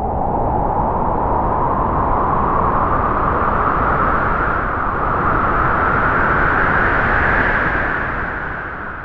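A long, loud rushing noise effect that slowly rises in pitch for about seven seconds, then begins to fade near the end.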